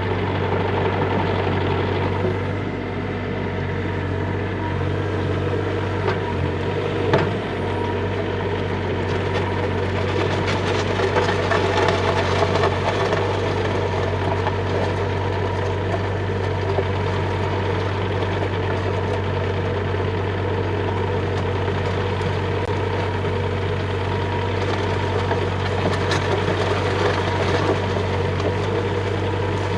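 Bobcat E35 mini excavator's diesel engine running steadily, with a sharp knock about seven seconds in.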